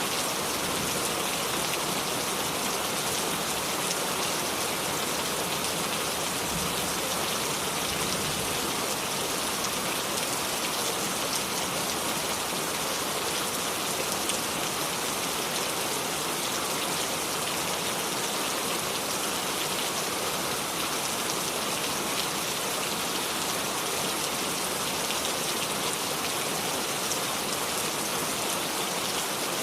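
Steady rain falling, an even hiss with a scatter of individual drops hitting a surface, without thunder.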